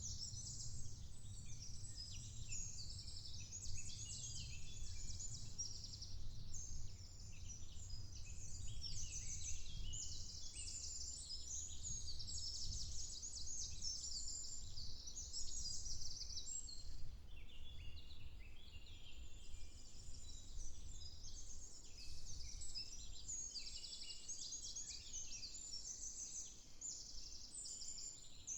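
A dense woodland dawn chorus: many songbirds chirping and singing at once, in quick overlapping phrases without a break, over a steady low rumble.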